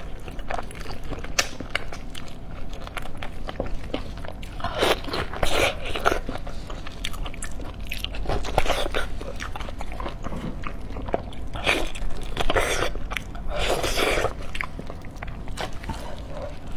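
A person eating close to the microphone: chewing and biting food, with many small clicks and several louder bursts of mouth noise.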